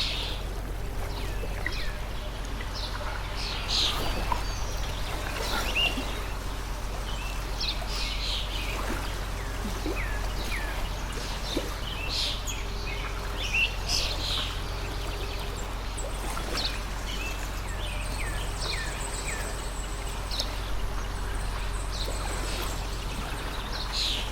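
A stream of water running steadily, with small birds chirping in short calls every second or so throughout.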